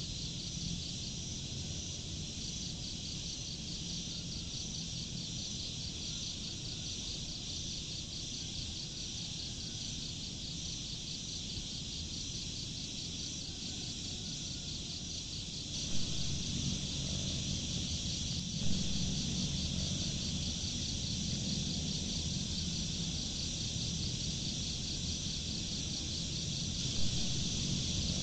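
Insects chirping in a steady, fast pulsing trill, over a low rumble of noise that grows louder a little after halfway, with a few short knocks.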